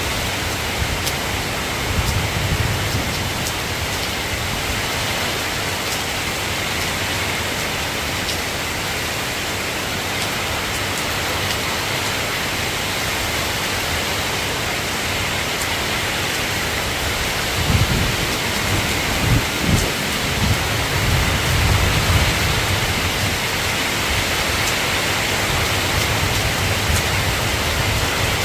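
Steady rain falling, with low rumbles of thunder in the first couple of seconds and again for several seconds past the middle.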